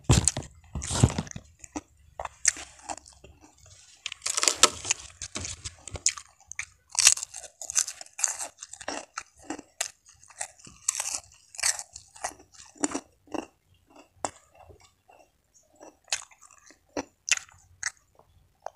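A person chewing and crunching crisp food in quick, irregular bites, eating rice with fried tempe and crackers by hand; the crunches thin out near the end.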